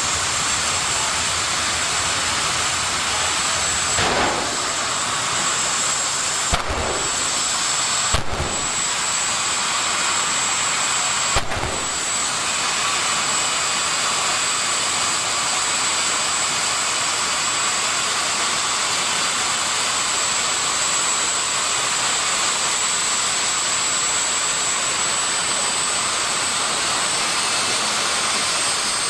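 Jet engine of a jet drag-racing car running steadily: a loud rush with a high, constant whine that steps up slightly near the end. A few short, sharp cracks stand out in the first twelve seconds or so.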